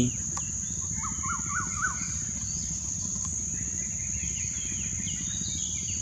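Asian koel calling: one quick series of about five rising notes about a second in. Under it runs a steady high insect buzz, with faint chirps from other birds.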